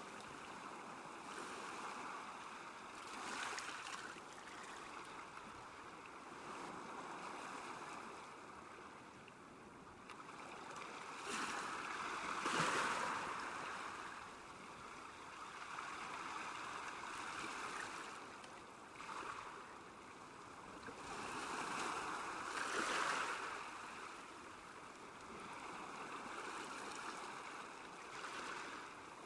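Small waves washing against a lake shore, a steady wash of water that swells and fades every few seconds.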